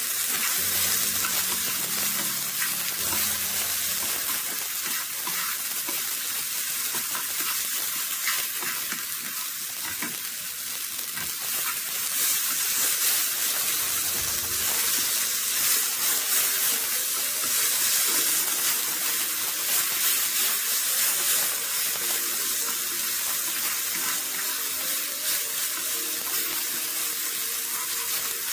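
Soya chunks sizzling steadily as they fry in coconut oil in a nonstick frying pan, with a wooden spatula stirring them and clicking against the pan.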